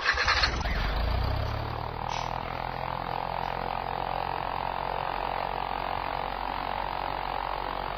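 A motor running steadily: a low rumble under a steady mid-pitched drone.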